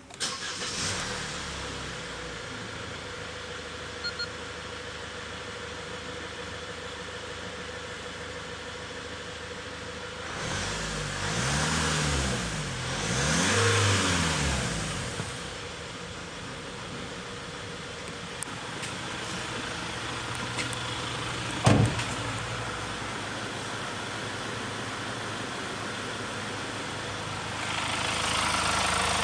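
Kia Carnival engine idling steadily. It is blipped twice, a few seconds apart, and each time the revs climb and drop back to idle. A single sharp knock comes in the second half, and the engine runs a little louder near the end.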